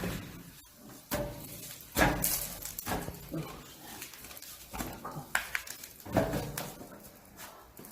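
Thuds and scrapes of a log being handled and set onto a hydraulic log splitter. The heaviest knocks come about two seconds in and again about six seconds in, along with a few short vocal sounds.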